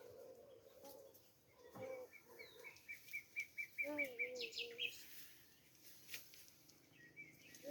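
A bird calling a quick run of about ten short, even notes midway through, followed by a few higher sweeping chirps.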